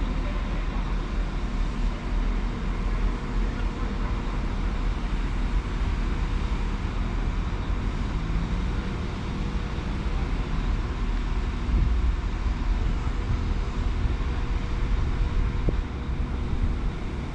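A train at a railway station running with a steady low rumble and a faint held tone.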